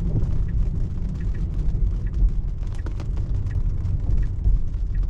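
Low, steady road and tyre rumble inside a Tesla Model 3's cabin on wet roads, with the turn signal ticking faintly and regularly.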